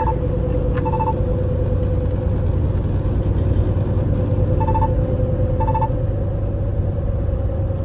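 Inside a semi-truck cab at highway speed: a steady rumble of engine and road noise with a constant hum. Short electronic beeps from the cab sound in two pairs, each pair a second apart, one at the start and one about five seconds in.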